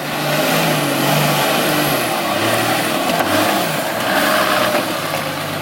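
Off-road 4x4 engine running, its pitch dropping about two seconds in and climbing again near the end, with a broad hiss of noise over it.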